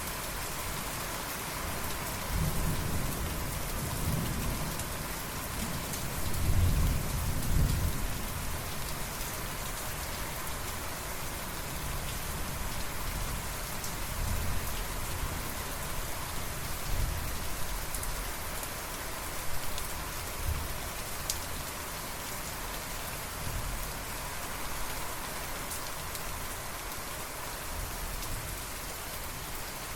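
Steady heavy rain falling, with rolls of thunder rumbling low underneath; the loudest roll comes a few seconds in, and fainter rumbles follow later.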